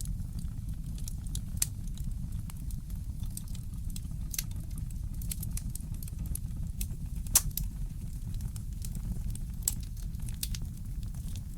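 Wood fire crackling: scattered sharp pops and snaps over a steady low rumble, the loudest pop about seven seconds in.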